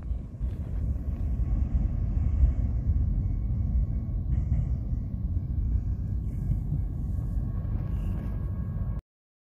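Low, steady rumble of a long mixed freight train's last cars rolling away down the track, with faint steady tones above it. It cuts off suddenly about nine seconds in.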